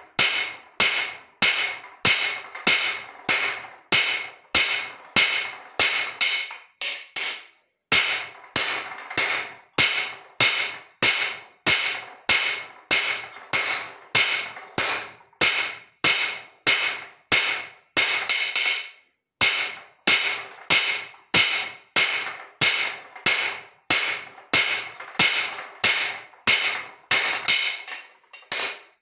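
Hand hammer striking leaf-spring steel on an anvil in steady hand forging, about two blows a second, each blow ringing briefly. The hammering stops for a moment twice, about seven seconds in and about nineteen seconds in.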